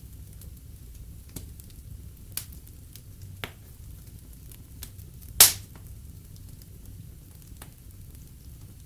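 Wood fire burning in a fireplace: a low steady rumble of flames with scattered crackles and one loud sharp pop about five and a half seconds in.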